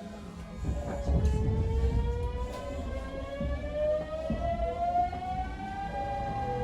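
Hanshin 9000 series train's Mitsubishi GTO-thyristor VVVF inverter whining under power, heard inside the car: a stack of tones climbs steadily in pitch as the train accelerates and levels off near the end, over the low rumble of the traction motors and wheels.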